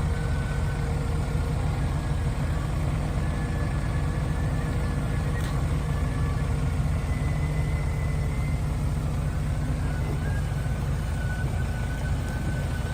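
Heavy diesel engine of earthmoving machinery, such as a dump truck or bulldozer, running steadily. It is a deep, even rumble with a faint high whine over it.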